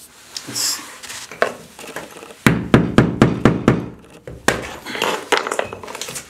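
Sharp knocks and scraping as old tile and mortar are broken away from a bathroom wall, with a quick run of hard strikes, about four a second, a little over two seconds in.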